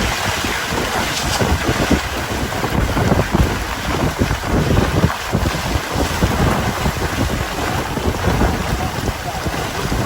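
Wind buffeting the microphone: a steady rushing noise with irregular low gusty rumbles.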